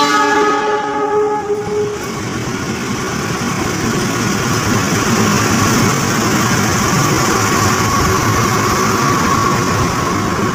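A diesel locomotive sounds its horn, a chord held for about two seconds, as it comes into the station. It then runs past hauling tank wagons: a loud, steady rumble of engine and wheels on the rails, with a steady high-pitched tone showing through in the last few seconds.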